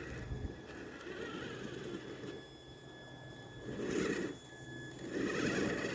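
Electric Tamiya TXT-2 RC monster truck's motor and drivetrain whining as it crawls, with a faint steady whine throughout and louder bursts about four seconds in and again near the end.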